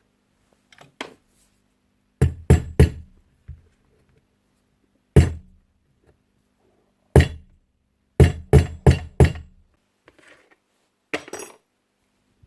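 Hammer tapping metal on a Paslode IM65A nail gun, driving the roll pin back in to hold the bar through the newly fitted yoke: about ten sharp taps in groups, three quick ones, then single blows, then four quick ones, followed by a light metallic rattle.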